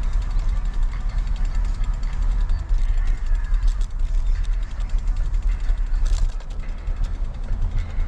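Wind rumbling on the microphone of a road bike in motion, with light creaking and ticking from the bike's parts.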